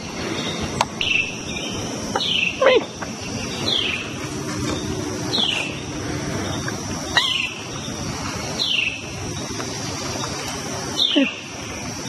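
Birds calling: a short call that slides down in pitch, repeated every second or two, over a steady high hiss.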